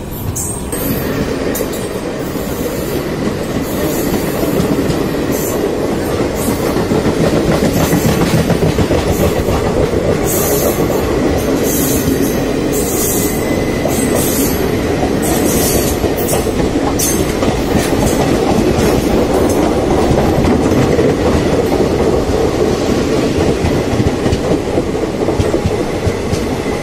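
Two express trains running side by side on parallel tracks, heard from the open door of a moving coach: a loud, steady rumble of wheels on rail with repeated clickety-clack over the rail joints and short high streaks of noise.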